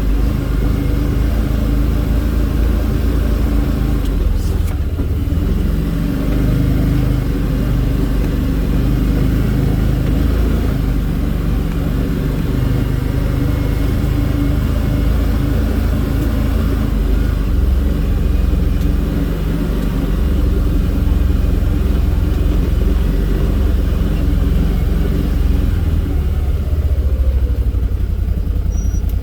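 A vehicle engine running steadily as it drives, with a single brief knock about four and a half seconds in.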